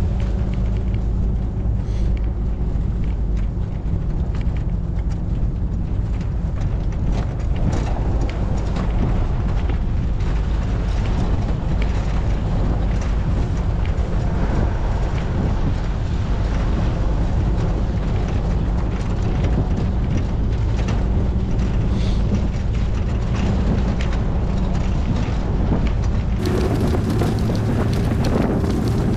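A vehicle driving: a steady engine drone under continuous road noise with small crackles. The sound changes abruptly about three seconds before the end.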